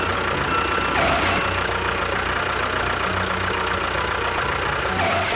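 An engine running steadily at idle, cutting off suddenly at the end.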